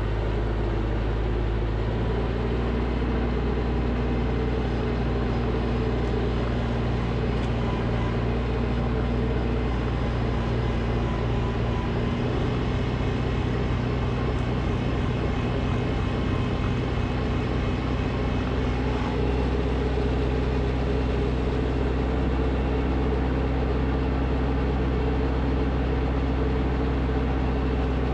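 Snowblower engine running steadily, its note shifting slightly now and then.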